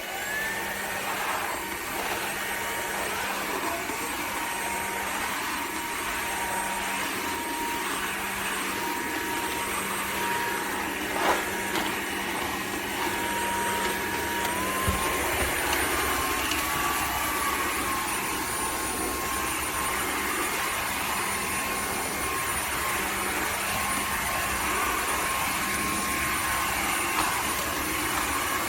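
Cordless wet-dry vacuum mop running: its motor spins up with a rising whine at the start, then holds a steady high whine. About halfway through, the pitch steps up slightly as the motor speeds up.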